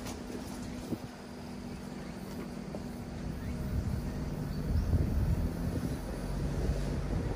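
Mitsubishi Delica D:5's 2.2-litre diesel engine running as the van drives, a low steady rumble that grows a little louder about four seconds in.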